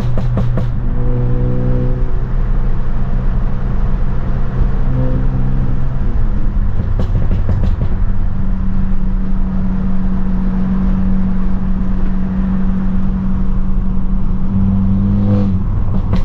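Straight-piped exhaust of a tuned BMW F30 328i's turbocharged four-cylinder droning while driving, heard from inside the cabin. The pitch steps up about six seconds in, holds, and drops again near the end, with a few sharp exhaust cracks near the start and about seven seconds in.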